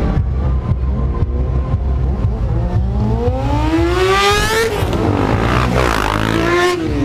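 Motorcycle engine revving: its pitch climbs steadily for about two seconds, drops back, then rises and falls once more near the end, over a steady low hum.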